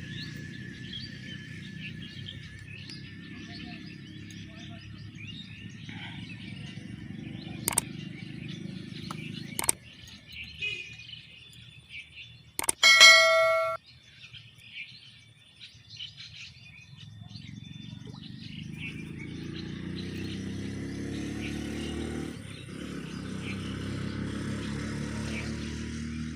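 Small birds chirping over a low steady rumble that drops away about ten seconds in and returns near the end. A couple of sharp clicks come before a loud, brief pitched tone with several overtones about halfway through.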